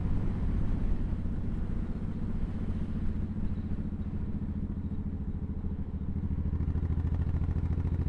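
Cruiser motorcycle engine running steadily with a low, even note, easing off slightly in the middle and picking up again near the end.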